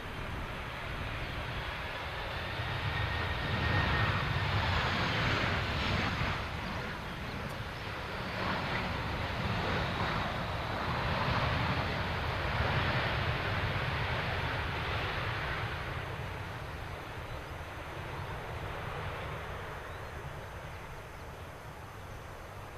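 Jet airliner's engines passing by: a wide rushing roar that swells, peaks and slowly fades, with a high engine whine that drops in pitch as the aircraft goes past.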